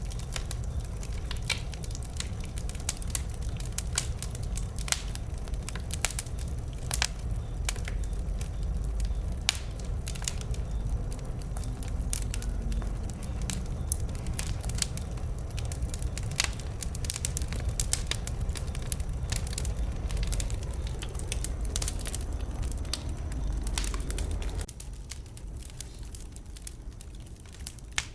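Wood fire crackling, with frequent irregular sharp pops over a steady low rumble. The rumble drops away suddenly near the end, leaving the pops.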